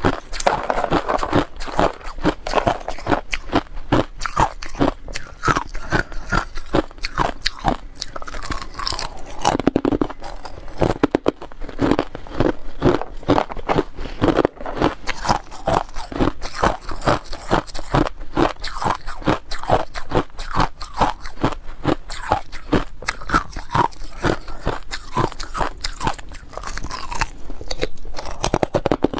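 A person biting and chewing ice: a fast, unbroken run of sharp, brittle crunches, several a second.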